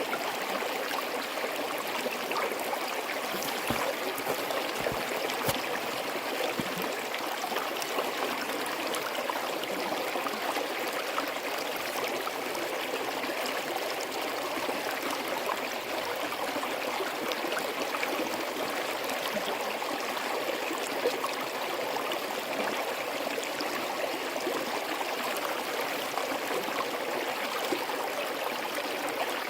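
Small forest stream flowing and trickling steadily over rocks, with a constant gurgling rush of water.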